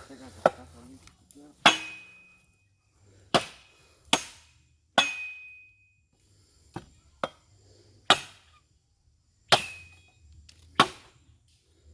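Firewood being chopped with a metal blade: about ten sharp, uneven strikes roughly a second apart, some leaving a brief high metallic ring.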